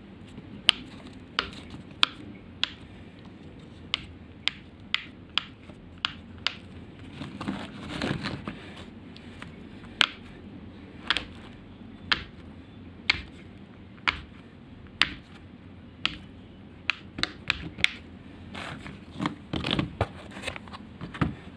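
Silicone pop-it fidget toy bubbles being pressed through one at a time, each giving a single sharp pop, about one every half second to a second. Soft rustling of the toy being handled comes in about a third of the way through and again near the end, with a quicker run of pops just before the end.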